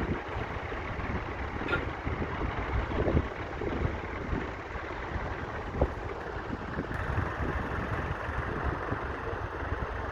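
Massey Ferguson 65's 3.3-litre four-cylinder diesel engine running steadily while ploughing, with a couple of short knocks about three and six seconds in.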